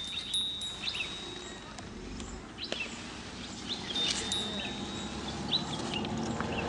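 Birds chirping now and then, short high calls scattered across the moment, over a steady outdoor background.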